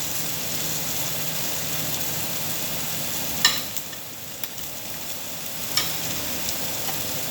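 Meat sizzling on a Korean barbecue table grill, a steady hiss that eases a little about four seconds in, with two sharp clicks, one about three and a half seconds in and one near six seconds.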